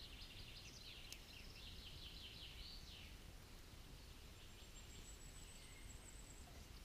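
Faint songbird song: quick runs of high notes over the first three seconds, then a thin, very high steady note for about two seconds, over a low background hush.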